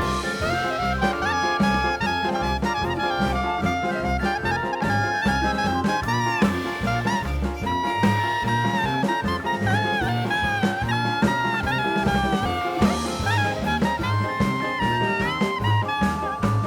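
Background music: an upbeat jazz tune with a brass or saxophone melody over a walking bass and steady beat.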